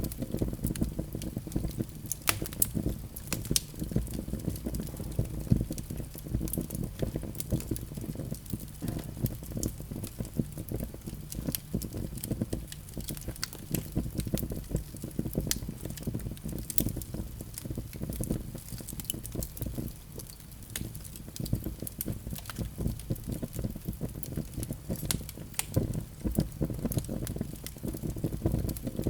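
Fire burning in a fireplace, with a steady low rumble of flames and frequent sharp crackles and pops.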